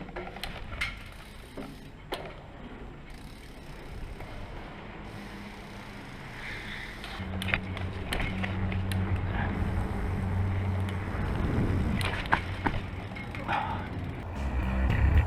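Bicycle parts clicking and rattling, like a freewheel ticking as bikes are handled, with scattered sharp clicks. A steady low hum comes in about seven seconds in.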